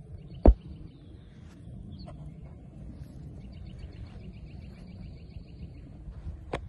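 Birds singing outdoors, including a fast trill of repeated chirps midway, over a steady low rumble of wind on the microphone. A single sharp knock comes about half a second in.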